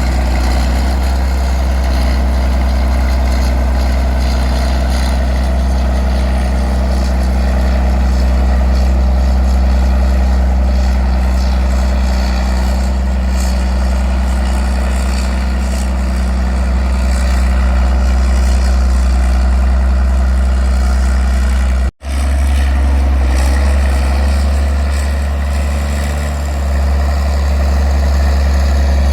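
Engine idling steadily with a low, constant hum. The sound drops out for an instant about 22 seconds in, then resumes.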